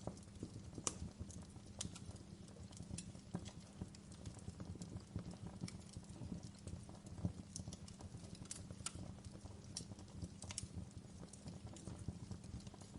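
Wood fire burning in a fireplace: a low steady rumble of flame with irregular sharp crackles and pops from the burning logs, several a second.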